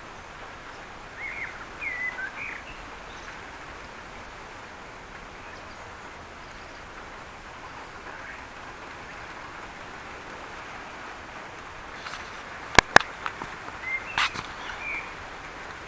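Steady hiss of rain falling, with short bird chirps a second or two in and again near the end. A couple of sharp clicks, the loudest sounds, come about three seconds before the end.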